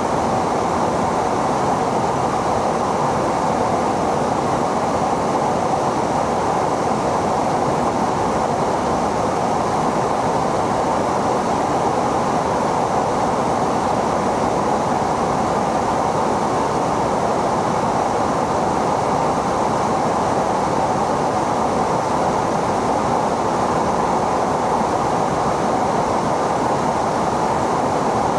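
Steady rushing noise of a jet aircraft in flight, even in pitch and level throughout, with no whine, rev or passing swell.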